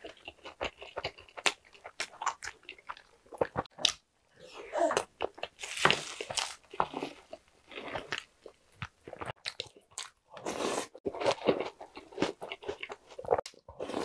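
Close-miked chewing of a soft ham and cheese sandwich: many sharp wet mouth clicks and smacks, with two denser stretches of chewing, one around the middle and one about three-quarters through.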